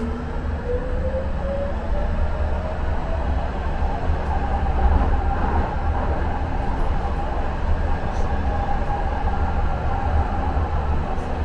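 N Judah Muni Metro light-rail car running on its rails with a steady low rumble. Its electric motor whine rises in pitch over the first couple of seconds as the car accelerates, then holds steady.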